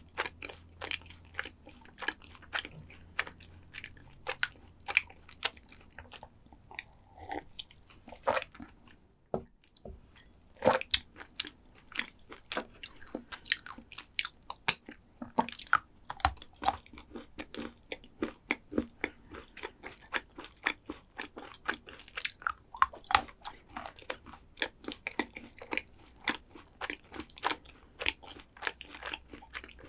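Close-miked chewing and biting, with dense irregular crunchy clicks and wet mouth sounds, and a brief silent break about nine seconds in.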